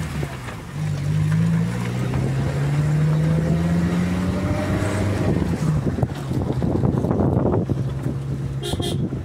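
Maruti Gypsy 4x4's engine running under way, its pitch climbing slowly over the first few seconds and then holding steady. A rushing noise swells and falls away past the middle, and a brief high beep sounds near the end.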